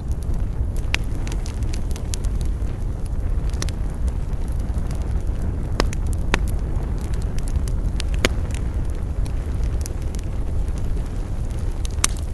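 Wood campfire crackling: scattered sharp pops and snaps, a few of them louder, over a steady low rumble.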